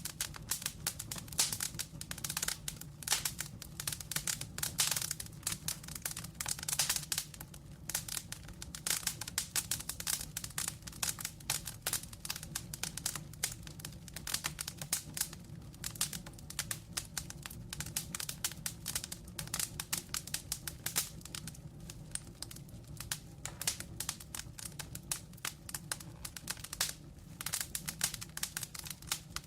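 Wood fire crackling: dense, irregular snaps and pops of burning logs over a steady low rumble.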